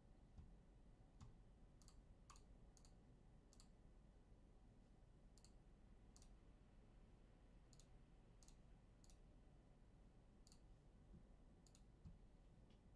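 Near silence: room tone with faint, sharp clicks scattered irregularly, about fifteen of them.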